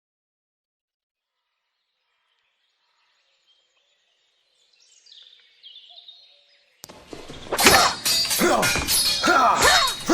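Silence, then faint bird chirps, then from about seven seconds in a rapid run of loud metallic clashes with a ringing tail: sword blades striking each other in sparring.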